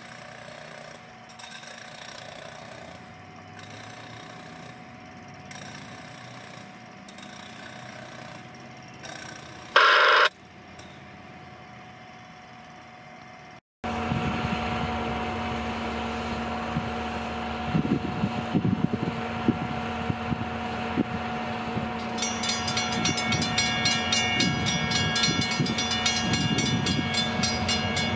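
A train moving on the rails. First there are quieter rail sounds, broken by one short, loud blast about ten seconds in. After a sudden cut comes a close-by train with a steady low locomotive drone and the knocks and clatter of cars on the rails, which get busier near the end.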